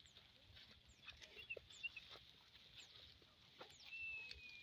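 Faint birdsong in open countryside: many short, high chirps and slides, with one longer, slightly falling whistle about four seconds in, over a soft steady hiss.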